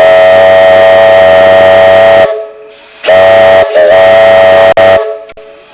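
Fowler traction engine's steam whistle blowing two loud, long, steady blasts, the second briefly broken near its start.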